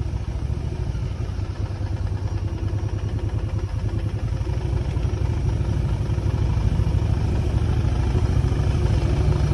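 Motorcycle engine running on the move, a steady fast low pulsing that grows slightly louder over the last few seconds.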